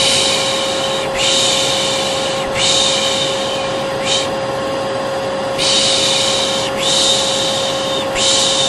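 Vacuum cleaner running steadily, with a person's soothing 'shhh' shushing (Turkish 'piş piş') repeated over it: hissy bursts of about a second each, six or seven in all, a few of them short.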